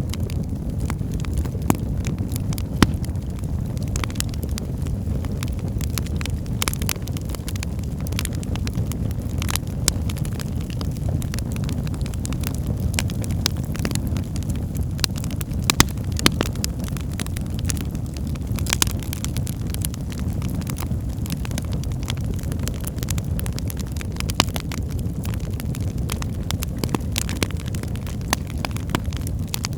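Wood fire burning in a fireplace: a steady low rumble of flames with frequent irregular crackles and pops, a few of them sharper.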